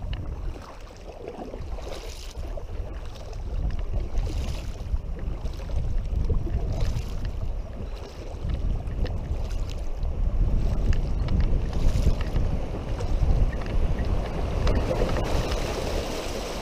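Wind rumbling on the action camera's microphone over water splashing and rushing around a kayak on a fast, high river.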